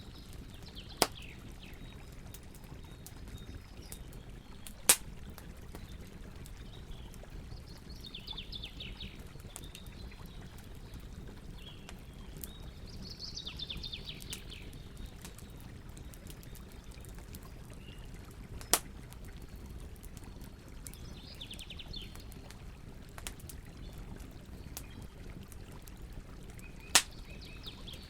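Campfire burning with a steady low rustle and a few sharp cracks from the wood, four of them loud. Birds sing short, quick trilling phrases in the background several times.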